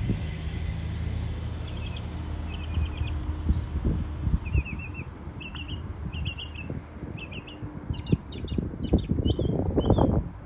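Northern mockingbird singing a string of varied short phrases, each a quick run of the same note repeated several times, over a low steady hum.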